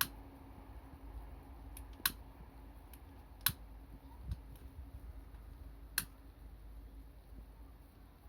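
Wood fire crackling: four sharp, separate pops a second or two apart.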